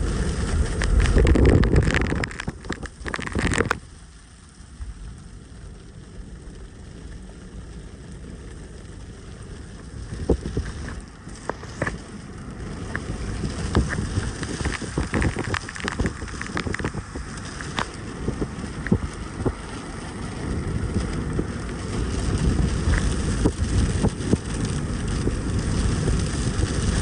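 Rain falling, with scattered drops tapping close by and wind rumbling on the microphone, loudest in the first two seconds, easing around four seconds in and then building again.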